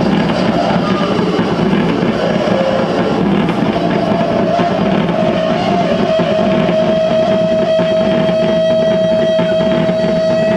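Live improvised harsh noise music: a dense, unbroken wall of distorted noise at constant loudness. A single steady tone comes in about a third of the way through and holds.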